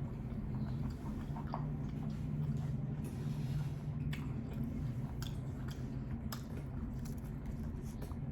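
Close-miked chewing of sushi rolls: soft wet mouth sounds with scattered small clicks, over a steady low hum.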